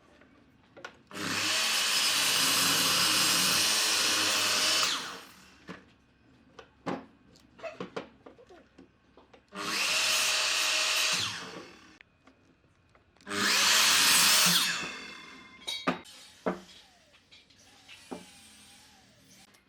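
A power tool working wood in three bursts, the first about four seconds long and the next two about two seconds each, with short knocks and clicks of handling in between.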